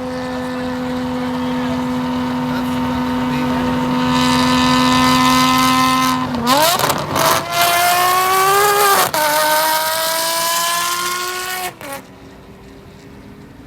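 Ferrari 599's 6.0-litre naturally aspirated V12, with headers and a full race exhaust, running loud at steady high revs and growing louder for several seconds. It then goes through two quick gear changes, about six and nine seconds in, with the pitch climbing between them, and cuts off abruptly near the end.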